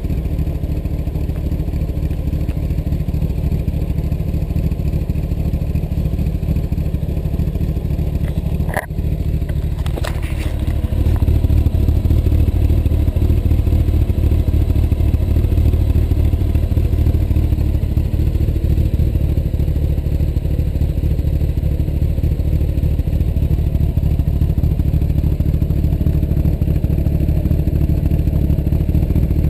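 Honda CBR1100XX's inline-four engine idling steadily, heard through its exhaust. There is a brief click about nine seconds in, and the engine sound gets louder about eleven seconds in, then stays even.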